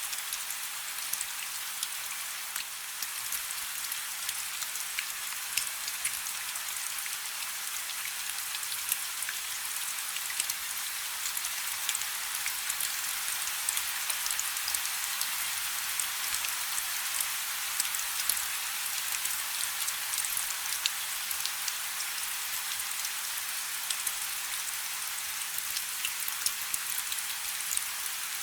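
Light rain falling steadily: a constant soft hiss dotted with many small, sharp drop ticks.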